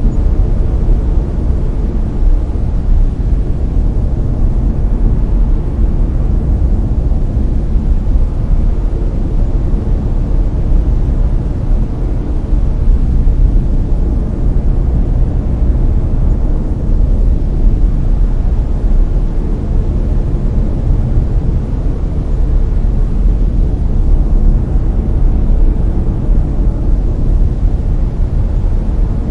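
Layered brown noise: a steady, deep rumbling hiss, strongest in the bass and fading toward the treble, with no changes.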